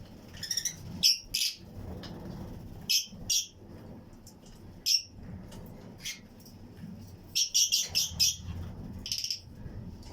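Lovebirds in a colony flight cage, Fischer's and lutino, giving short, shrill chirps: scattered single calls, then a quick run of several near the end, over a low steady hum.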